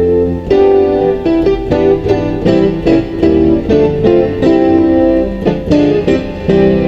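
Piano playing a run of chords with frequent, rhythmic new attacks.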